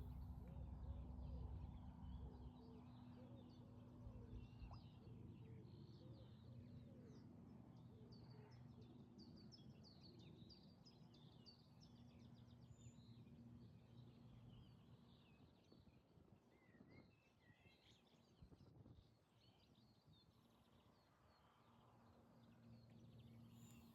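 Faint outdoor birdsong: many small chirps and short calls from several birds throughout, over a steady low hum.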